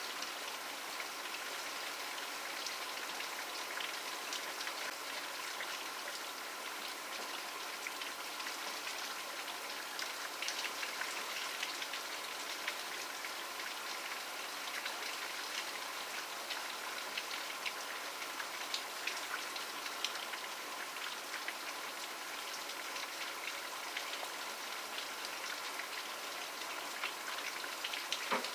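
Steady rainfall: an even hiss with many separate drops ticking through it.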